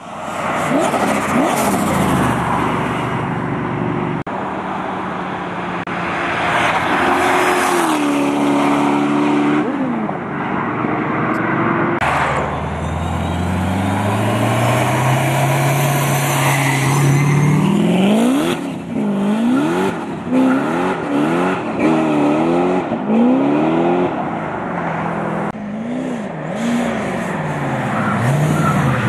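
Supercharged V8 engine in a Nissan 240Z revving hard, its pitch rising and falling. Near the middle it climbs steadily in one long pull, then it is blipped up and down in quick revs.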